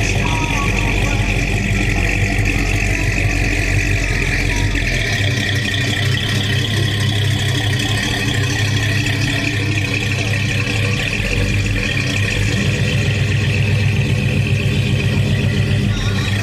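A car engine idling steadily; its deepest rumble drops away about five seconds in.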